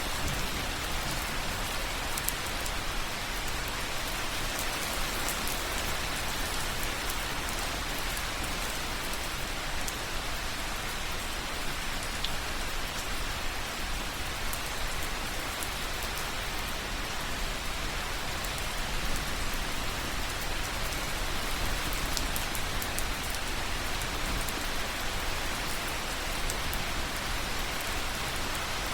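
Rain water dripping and pattering on a soft surface, a steady hiss with scattered faint drip ticks.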